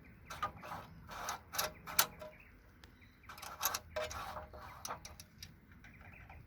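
Irregular sharp clicks and taps of the lawnmower engine's screw-in dipstick being turned into the oil filler neck and handled.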